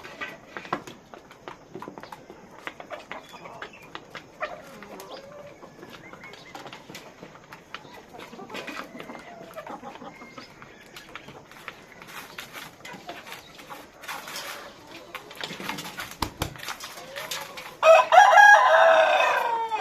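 Chickens clucking softly among many small scratching or pecking clicks, then a rooster crows loudly for about two seconds near the end, its call dropping at the finish.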